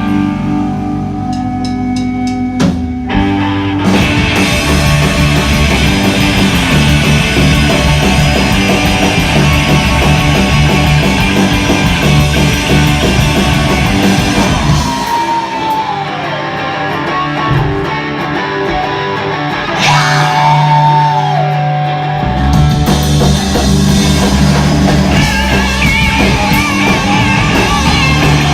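Live rock band playing loud electric guitars over bass and drums, the full band coming in about four seconds in. About halfway through, the bass and drums drop out, leaving guitar with bending notes, and the full band comes crashing back in several seconds later.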